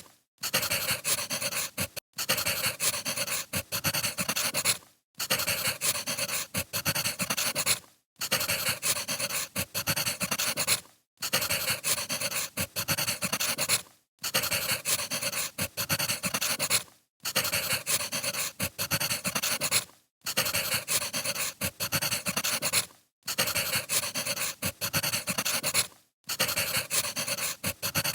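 Crackling wood fire, a dense patter of crackles that breaks off for a moment about every three seconds, as a short recording repeating.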